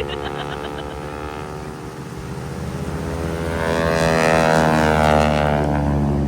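Propeller airplane flying past during an air show: its engine drone grows louder to a peak about four to five seconds in, and its pitch drops as it passes.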